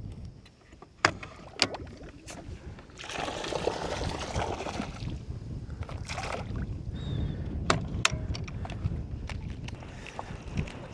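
Water splashing and sloshing around a canoe, with a few sharp knocks on the boat and a steady low wind rumble; the splashing is loudest for a couple of seconds in the middle.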